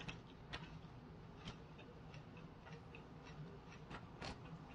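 Close-up chewing of rice-paper spring rolls filled with fresh vegetables: irregular soft mouth clicks and crunches, one louder click about four seconds in.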